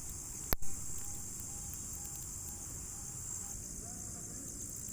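Steady high-pitched chorus of crickets and other night insects. A single sharp crack comes about half a second in, followed by a faint short note repeated about twice a second for a few seconds.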